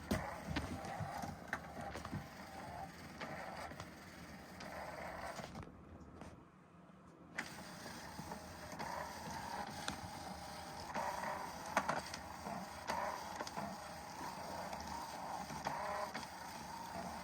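Battery-powered motorized cat toy running: a steady small-motor whir with scattered clicks. It goes quiet for about a second and a half, about six seconds in, then runs on.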